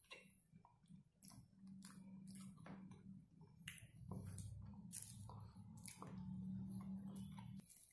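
Faint close-up chewing and biting on fried chicken, with wet mouth clicks and smacks.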